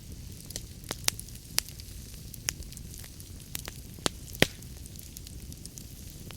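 Wood fire crackling in a fireplace: irregular sharp pops and snaps over a low steady rumble of the flames, the loudest pop about four and a half seconds in.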